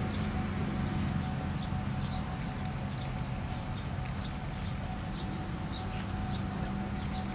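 A bird repeating a short, high chirp over and over, about one to two a second, over a steady low rumble with a constant hum.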